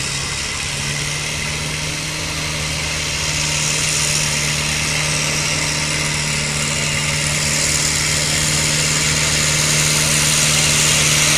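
Altered stock pulling tractor's engine running hard at a steady pitch, growing gradually louder.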